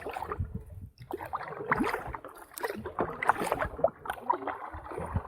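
Kayak paddle strokes dipping and splashing in the water, with irregular small knocks and splashes.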